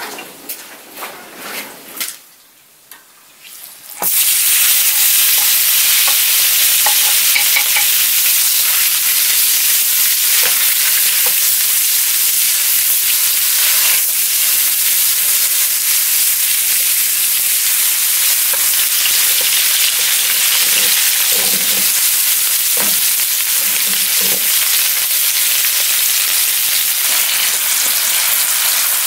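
Chicken pieces frying in a pan on a wood-fired stove: a loud, steady sizzle that starts suddenly about four seconds in, after a few light clicks and knocks, and is stirred now and then.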